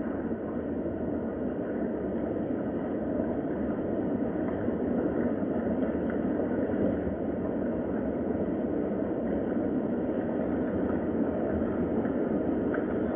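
Steady rain, a dull even wash of noise with faint scattered drop ticks.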